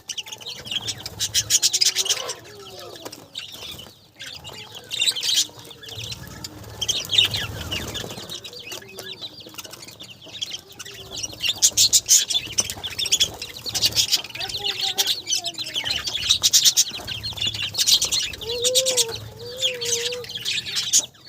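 Budgerigars chirping and chattering without pause: rapid high chirps, with lower warbling calls coming in more often near the end.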